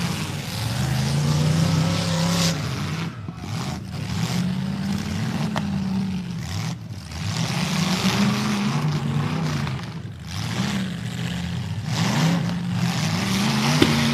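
Demolition derby car engines revving hard under load, their pitch climbing and falling again in repeated surges every couple of seconds as the drivers work their drivetrains.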